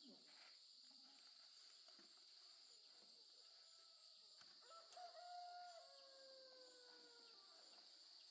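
Faint rural ambience: a steady high chirring of insects, with a distant rooster crowing once about five seconds in, a long slowly falling call.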